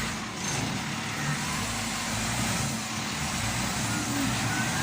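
Army trucks driving by: steady engine and road noise.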